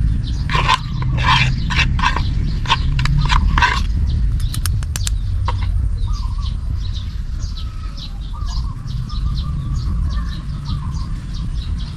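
Small birds chirping with many short high calls, over a loud steady low rumble. Several sharper, louder calls or strokes come in the first few seconds.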